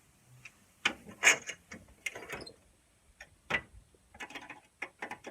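A series of irregular sharp clicks and knocks, with a quicker run of clicks in the second half.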